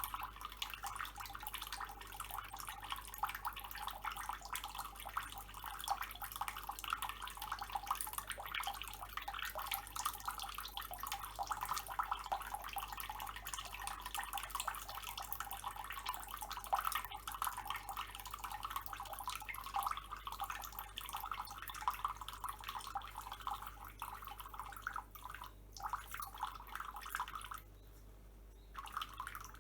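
Tap water running and splashing, with a dense patter of drops. It cuts out for about a second near the end, then resumes.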